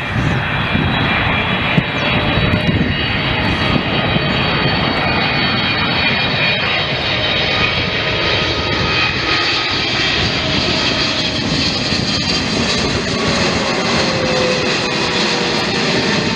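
Aircraft engine running loud and steady, with a few steady tones over a dense roar; near the end some of the tones slowly fall in pitch.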